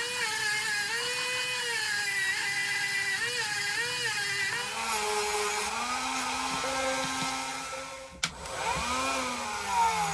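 Small high-speed rotary power tool whining, its pitch wavering and sagging as it is pressed into the work. About eight seconds in it briefly drops out with a click, then winds back up.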